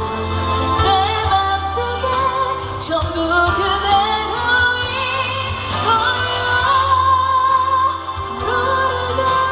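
A woman singing a pop ballad live over a band backing, drawing out long notes with vibrato; one long held note near the end.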